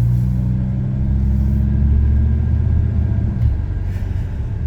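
Dodge Ram SRT10's Viper V10 engine running through a MagnaFlow aftermarket exhaust as the truck drives off, a deep steady note whose pitch changes about a second in and again about three and a half seconds in.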